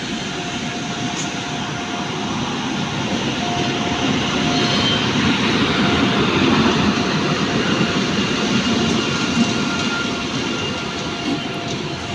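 Passenger train hauled by a WAP7 electric locomotive rolling past, the rumble of wheels on rails growing louder to a peak about halfway through and then easing off, with faint steady high tones over it.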